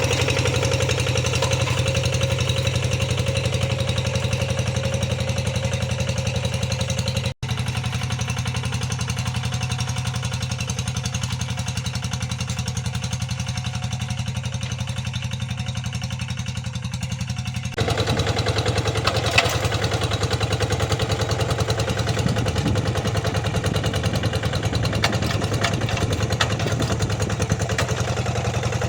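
Tractor engine running steadily while ploughing a wet rice paddy. The sound cuts out for an instant about seven seconds in, and shifts about eighteen seconds in, with more clatter over the engine from there on.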